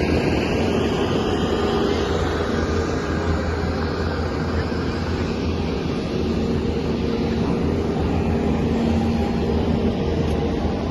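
Demolition derby cars' engines running steadily, a continuous mechanical drone with a steady low hum.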